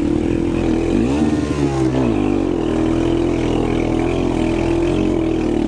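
Quad (ATV) engine running steadily under throttle in a race. About a second in, a second engine briefly rises and falls in pitch.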